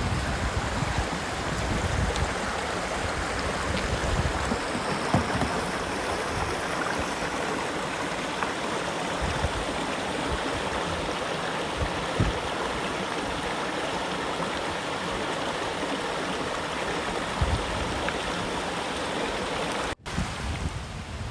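A stream flowing steadily, an even rush of running water that breaks off abruptly near the end.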